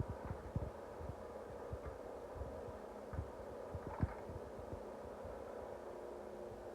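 Steady mechanical hum with irregular low knocks and thumps, as of exhaust pipe being handled and fitted in a shop.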